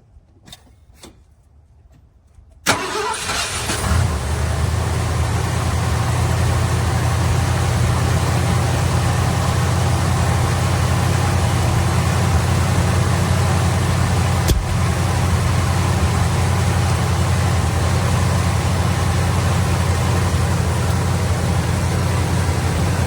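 A car engine cranks and catches about three seconds in, after roughly a second of cranking, then idles steadily. A single sharp click comes midway through.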